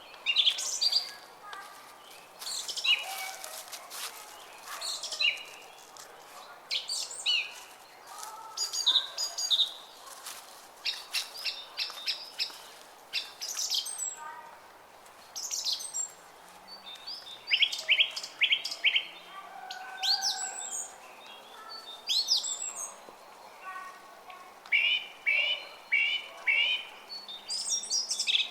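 Several songbirds chirping and singing in quick, overlapping calls, over the steady murmur of a brook.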